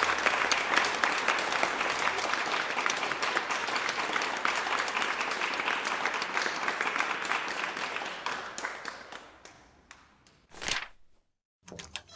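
Crowd applause sound effect, many hands clapping at once, fading out about three-quarters of the way through; a brief, separate burst of noise follows near the end.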